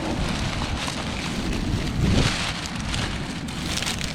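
Strong sea wind buffeting the microphone over the rush of surf, in an even noise with a couple of louder gusts.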